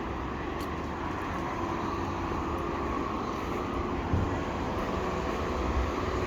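Steady street traffic: vehicle engines and road noise with a low rumble and a faint steady hum, and a brief knock about four seconds in.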